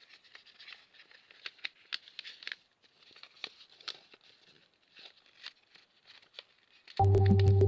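Square origami paper being folded and creased by hand: faint, irregular crinkles and soft ticks. Background music starts suddenly near the end and is much louder than the paper.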